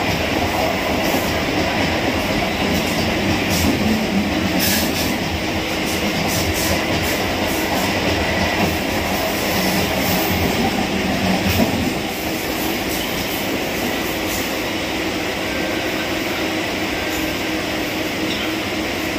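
Chennai suburban electric train running along the track: a steady rumble of wheels and carriages, with scattered clicks and one louder jolt a little before the middle.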